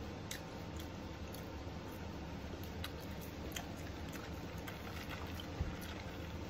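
Close-up chewing of McDonald's french fries, with scattered faint wet mouth clicks over a steady low hum. A single soft bump comes near the end.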